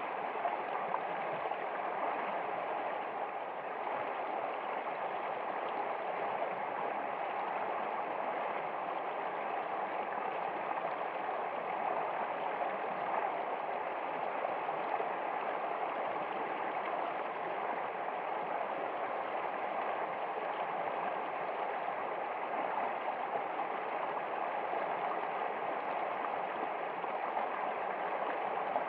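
Steady flowing water of a stream, an even unbroken rush.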